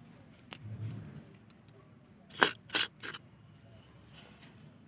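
Soil being put into a flowerpot by hand, with short scraping and rustling sounds. There is a soft thump about a second in and two sharper scrapes around two and a half seconds in.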